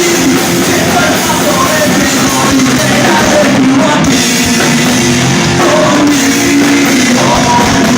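Live rock band playing loudly, with a voice singing over the band.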